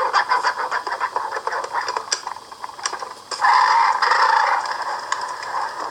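'Mother Nature Says' See 'n Say talking toy playing from its worn internal record through a tiny speaker: scratchy crackling clicks, then a loud raspy burst about three and a half seconds in.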